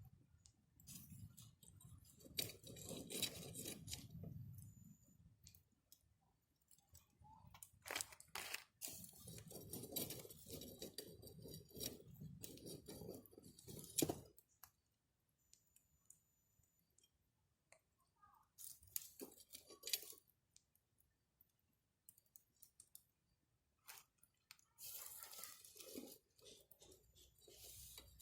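Close rustling and crunching with scattered clicks, coming in several bouts of a few seconds each with quiet between, as something is handled near the microphone.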